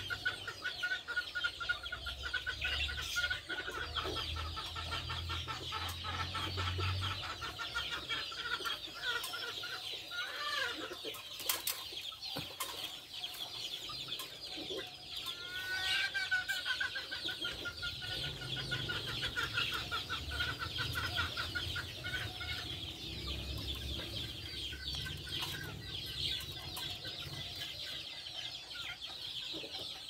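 Birds calling and chirping without a break, many quick repeated notes layered together, with a short rising call about halfway through.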